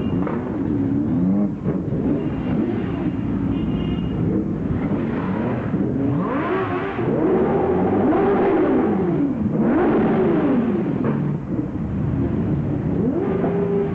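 A stream of motorcycles riding past one after another, their engines climbing and dropping in pitch as they accelerate away, with several running at once.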